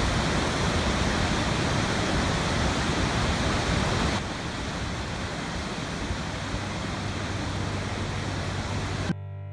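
Steady rushing noise of running water, a little duller and quieter from about four seconds in. Near the end it cuts off suddenly and slow bowed-string music begins.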